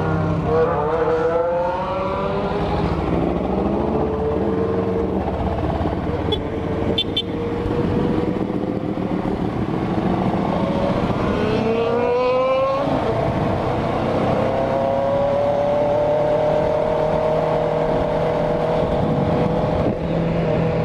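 Kawasaki ER6N's parallel-twin engine heard from on board while riding: the revs climb and fall through the gears, with a sharp drop at a gear change about twelve seconds in, then a steady cruise. Wind and road noise run underneath.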